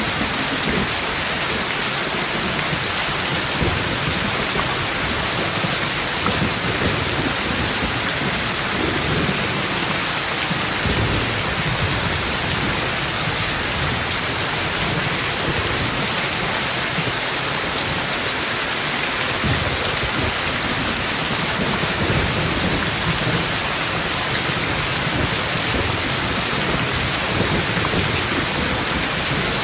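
Rain pouring steadily, with low thunder rumbling on and off underneath.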